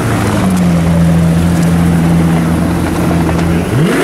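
Pagani Utopia's twin-turbo V12 running steadily at low revs, then starting to rev up sharply near the end.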